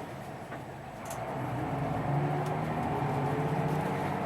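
A vehicle's engine running with a steady drone, a little quieter for the first second and then holding level.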